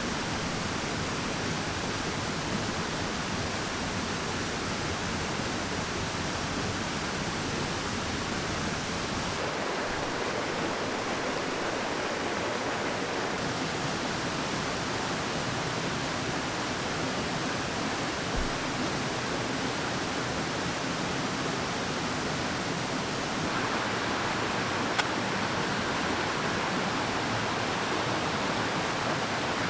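Mountain stream water rushing steadily. The tone of the rush shifts twice, about a third of the way in and again past three-quarters. There is a soft thump around the middle and a single sharp click near the end.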